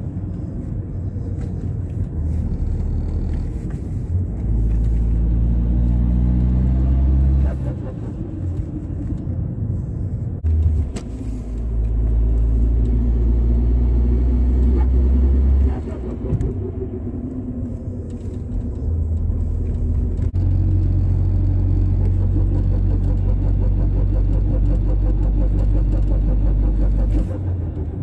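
Seat Ibiza 1.9 TDI four-cylinder diesel with a GTD2060VZ turbo, heard from inside the cabin, pulling hard three times for several seconds each, with quieter stretches between when the throttle is lifted. The turbo makes its cooing 'pigeon' sound.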